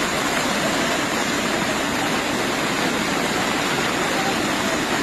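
A loud, steady rush of storm water: heavy rain and running water with no break.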